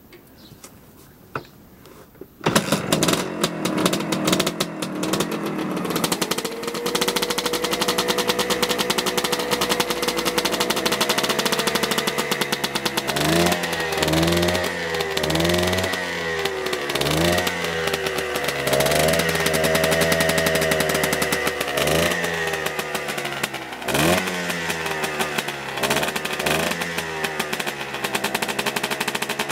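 Suzuki 250 two-stroke single-cylinder motorcycle engine firing up about two and a half seconds in, then running and being revved in repeated blips, its pitch rising and falling, through the second half.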